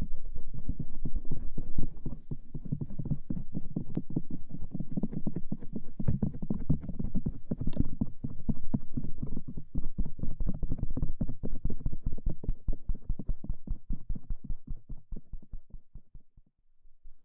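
Stainless steel ear pick scraping and rubbing rapidly over the outer ear (pinna), heard up close as dense, muffled scratching strokes. It fades out and stops shortly before the end.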